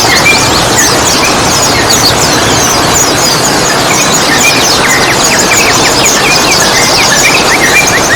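Loud, continuous chorus of many small songbirds chirping and chattering over a steady hiss, packed with quick high descending chirps, with a run of rapid lower chirps near the end: a bird-keepers' therapy recording for yellow-vented bulbuls.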